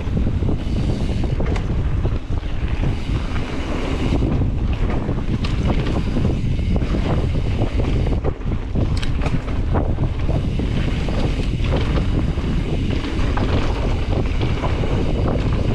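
Wind buffeting the microphone as a mountain bike rides a dirt trail at speed, with a steady low rumble and frequent clicks and rattles from the bike and tyres over bumps.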